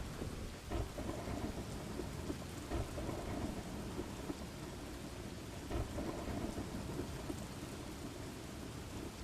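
Steady rain falling, with a low rumble of thunder and the irregular patter of drops striking a surface.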